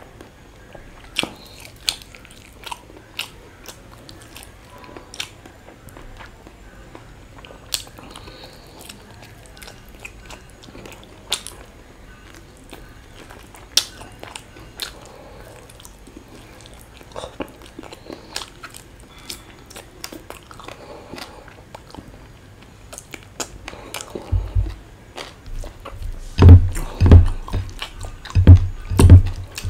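Close-miked eating sounds of a man chewing chicken curry and rice, with scattered sharp wet mouth clicks and smacks. Near the end comes a run of loud, low thumps.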